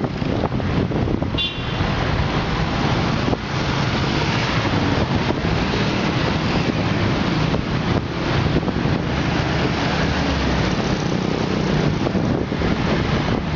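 Street traffic noise: vehicles passing, with wind buffeting the microphone. A short high tone sounds about a second and a half in.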